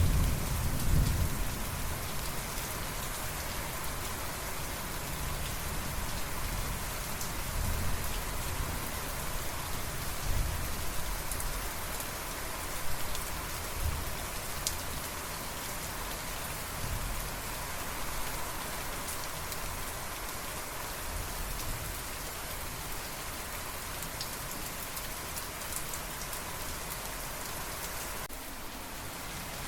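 Steady heavy rain hissing, with low rolls of thunder: the strongest right at the start, and a few fainter rumbles through the first half.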